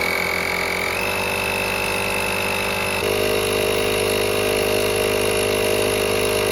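Portable 12-volt tire inflator's compressor running steadily with a high whine, pumping up an underinflated tire. Its pitch steps up slightly about a second in and again about three seconds in.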